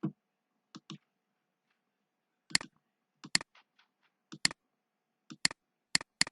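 Computer keys clicking: sharp separate clicks, single or in quick pairs, about one a second, with silence between them.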